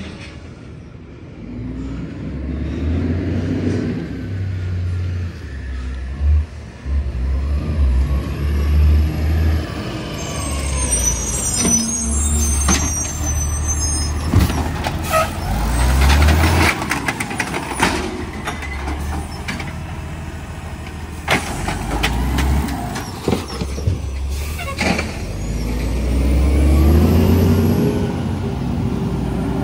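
A garbage truck working: its diesel engine runs and revs up and down, with a hiss partway through and several sharp bangs and knocks.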